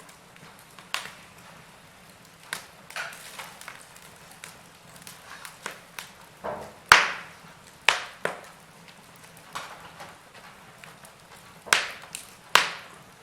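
Wood fire crackling in a fireplace: irregular sharp pops and snaps over a faint hiss. The loudest pop comes about seven seconds in, with two more strong snaps near the end.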